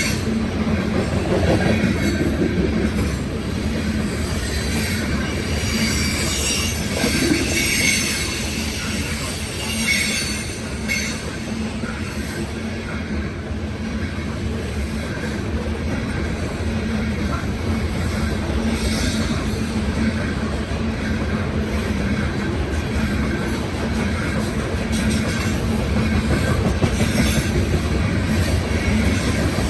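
Coal hopper cars of a Union Pacific unit coal train rolling past, steel wheels running steadily on the rails, with short wheel squeals now and then.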